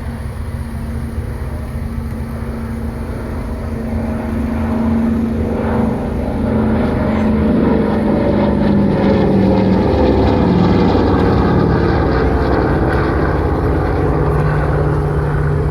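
Douglas Dakota's two radial piston engines droning as the aircraft flies past, growing louder towards the middle, with the engine note sliding down in pitch as it passes.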